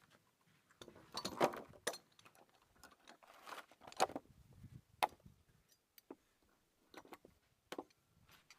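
Scattered light knocks and clicks of hand work on wood, with a short scraping about a second in and a few sharper knocks later on.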